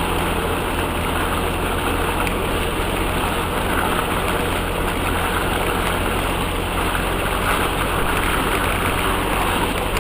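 UAZ off-road vehicle's engine running steadily, with no revving.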